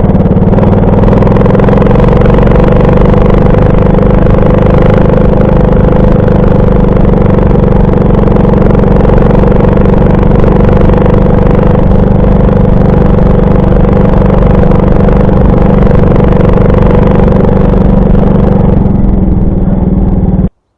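Alpha 110 moped's single-cylinder four-stroke engine running at a steady speed on the move. The engine note is loud and even, and it cuts off abruptly near the end.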